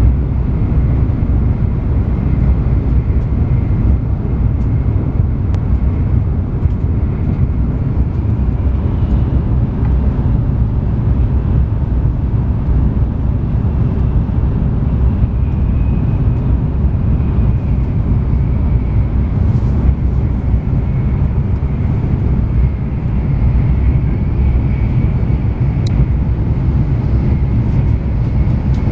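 Steady low rumble of a Shinkansen bullet train running at speed, heard inside the passenger cabin, with a faint high whine above it.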